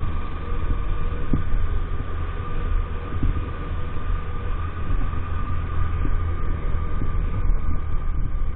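EAYS Pro 50cc moped running steadily on the move, with a steady whine and a heavy low wind rumble on the microphone, plus a few light knocks.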